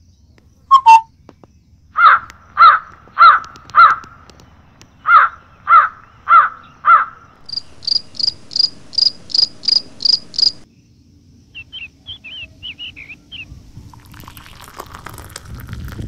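Birds calling: eight loud, evenly spaced calls in two groups of four, about half a second apart. Then a run of about nine quick high-pitched notes, a few soft chirps, and a rising rustling hiss near the end.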